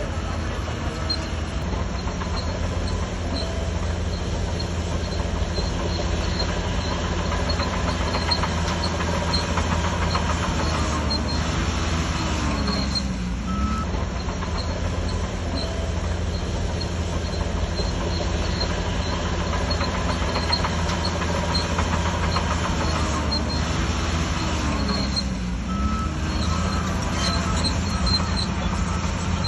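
Shantui DH17C3 crawler bulldozer's diesel engine running steadily under load, with a regular high clicking over it. The engine pitch dips and recovers twice, about twelve seconds in and again near twenty-five seconds.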